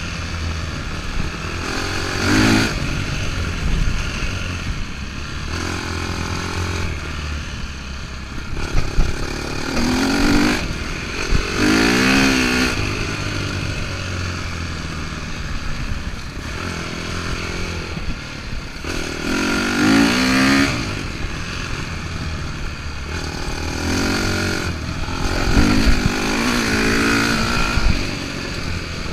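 Dirt bike engine under way on a dirt track, revving up and easing off again and again. The pitch climbs hard in a few surges, about two seconds in, around ten to twelve seconds, near twenty seconds and again about twenty-five seconds in.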